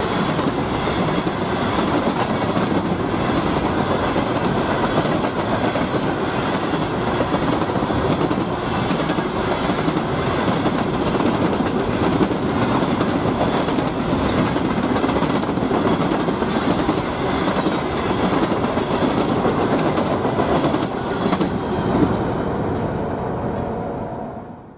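Freight cars of a Norfolk Southern ballast train rolling past close by: a steady rumble of steel wheels on rail with clickety-clack over the rail joints. The sound fades away near the end.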